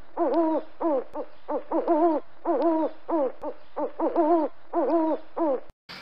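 Owl hooting: a fast series of short hoots in clusters, about two a second, each cluster ending in a wavering note. The calls stop suddenly shortly before the end.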